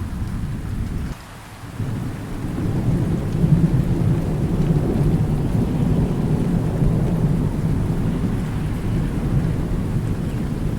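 Rain falling with a low rolling thunder rumble. About a second in the sound briefly drops away, then the rumble swells back up and carries on.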